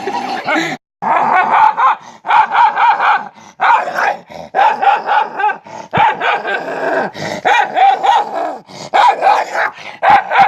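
A dog barking and yipping in quick runs of short, pitched calls, with brief pauses between the runs.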